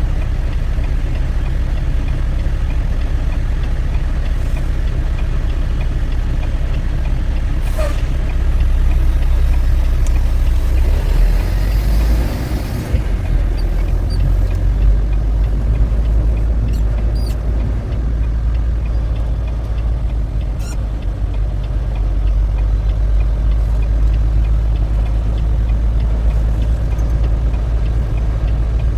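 Semi-truck engine running with a steady low rumble, and a short hiss about twelve seconds in.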